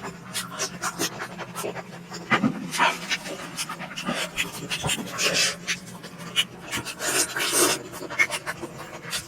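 Close-miked mouth sounds of someone eating momos: wet chewing clicks and lip smacks, with several louder breathy bursts every two seconds or so.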